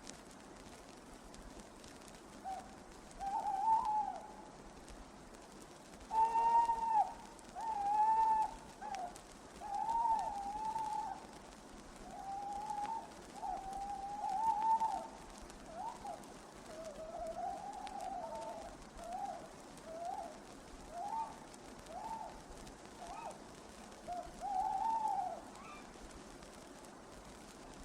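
Owl hooting: a long series of short, arched hoots, some quavering, over steady record hiss, ending a few seconds before the end.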